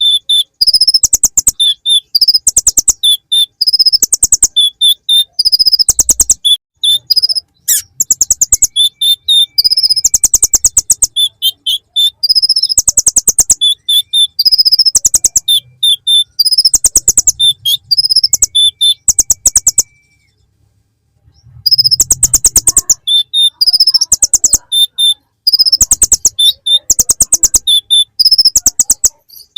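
Kolibri ninja sunbird singing a high-pitched song of fast, rattling trilled phrases packed with bar-winged prinia (ciblek) imitations, phrase after phrase with short gaps and one longer pause about two-thirds of the way through.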